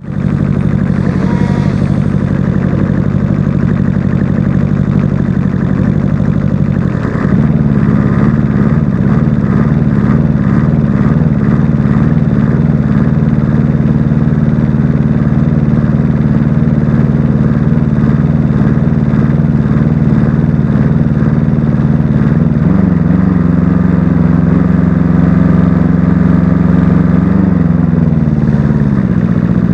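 Engine idling roughly. About seven seconds in it gets louder and takes on a regular pulsing beat; later it rises a little in pitch for several seconds, then drops back.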